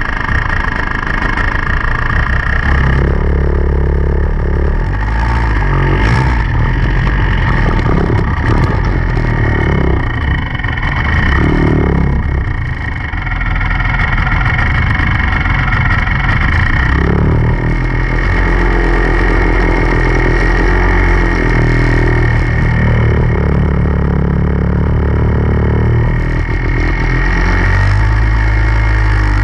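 Enduro dirt bike engine running hard, its pitch stepping up and down every few seconds with throttle and gear changes.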